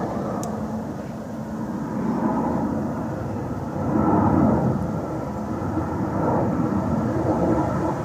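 Airplane engine noise: a rumbling drone that swells loudest about four seconds in. A brief click sounds near the start.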